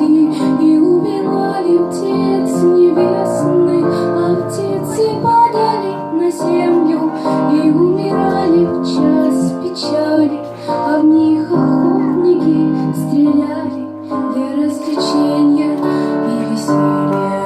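Music: a woman singing a song with instrumental backing.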